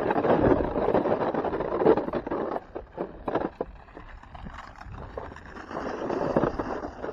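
Snowboard sliding and scraping over icy, choppy snow, a rough rushing noise that eases off in the middle with a few sharp scrapes and chatters, then swells again.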